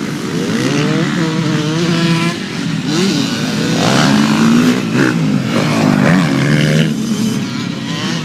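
Several motocross dirt bikes running on the track, their engines revving up and down and overlapping as they pass.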